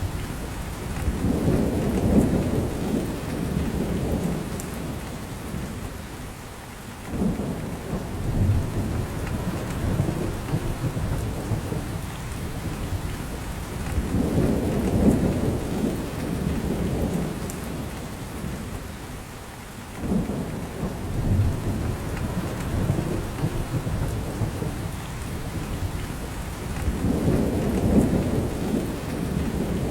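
Steady rain falling through spruce forest, with drops falling from the branches. Low rumbles swell and fade under it every six or seven seconds, a couple of them starting suddenly.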